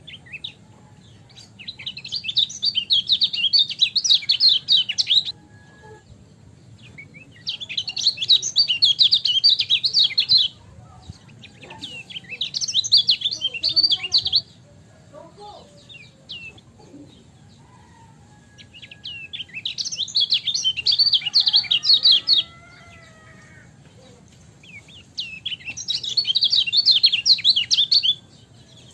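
Kecial kuning, a Lombok white-eye, singing in five rapid, chattering bursts of a few seconds each, with short pauses between them. A faint steady low hum lies underneath.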